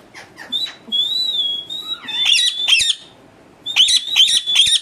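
Pet parrot calling: a short wavering whistle, then two bouts of harsh, rapid squawks.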